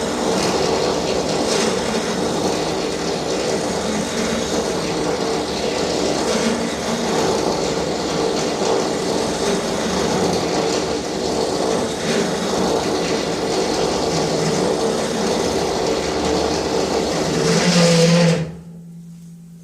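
Electric drill running steadily, then stopping abruptly about eighteen seconds in.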